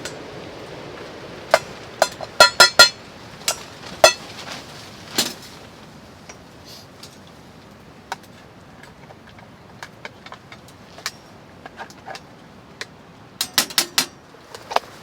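Sharp clinks and knocks of items being rummaged in a cooler, several of them short ringing clatters like metal or glass, in two busier clusters about two and a half seconds in and near the end, with scattered lighter ticks between.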